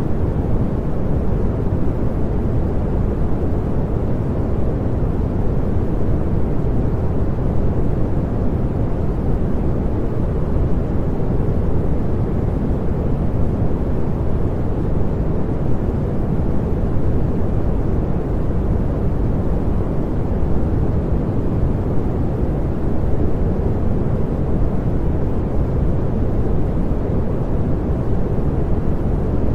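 Continuous pink noise, a steady, even rushing hiss with most of its weight in the low end, unchanging throughout.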